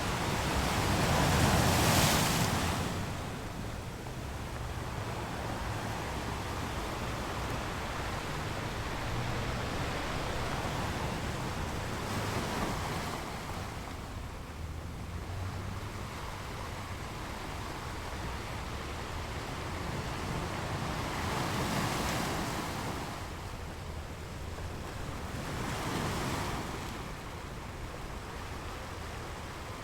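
Waves breaking and washing in, a steady noise that swells every several seconds, the loudest surge about two seconds in; some wind on the microphone.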